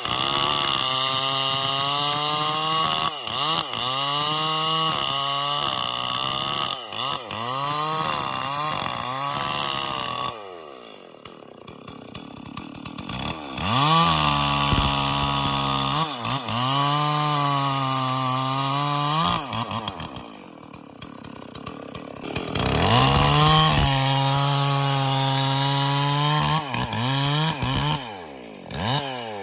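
Stihl MS440 two-stroke chainsaw running at high revs and cutting, its pitch sagging and recovering again and again. It drops back to idle twice, about ten and twenty seconds in, and falls away again near the end.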